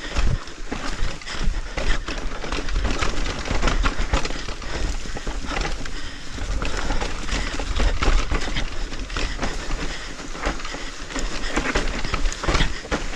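Mountain bike riding over a rough dirt trail: a constant clatter and rattle of the bike with tyres crunching over the ground, and wind rumbling on the microphone.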